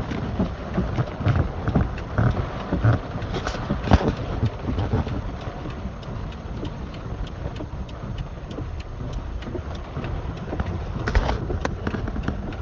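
Rain falling: a steady hiss with many sharp drop hits close by and a fluctuating low rumble. The loudest hit is a sharp knock about four seconds in.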